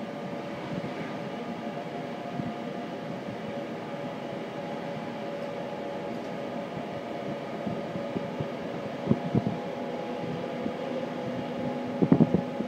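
Steady running hum inside a moving train carriage, with several held tones and a few faint knocks from the wheels.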